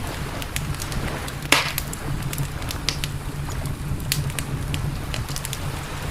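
Campfire crackling, with irregular sharp pops and one louder pop about a second and a half in, over a steady low rumble.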